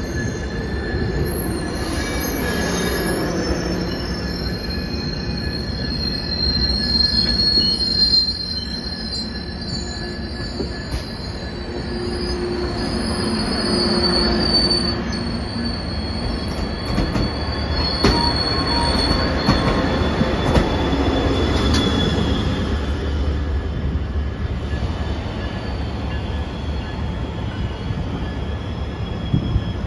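Commuter train of bilevel passenger cars rolling slowly into a station, its wheels giving thin, high-pitched metallic squeals over a low rumble. The squealing dies away about two-thirds of the way through, leaving only the rumble.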